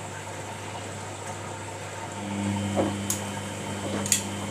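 Samsung front-loading washing machine running its cool-down in service mode: a steady low hum with a haze of water noise. A second, higher hum joins about halfway through, and a couple of small clicks come near the end.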